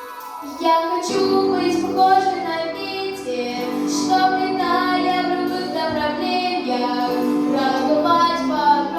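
A young girl singing a song with instrumental backing; her voice comes in less than a second in, after a soft intro.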